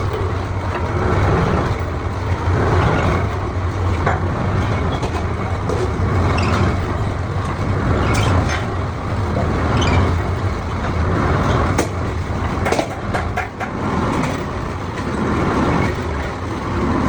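Steady workshop machinery noise with a low hum, broken by scattered short knocks and clicks, more frequent in the second half.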